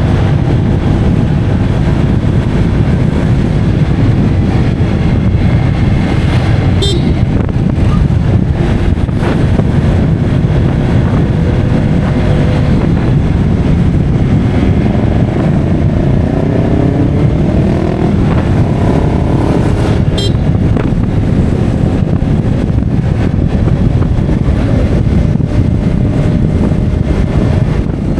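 Motorcycle engine and road noise on the move, with heavy rumble from wind on the microphone. Around the middle, a whine rises and then falls in pitch.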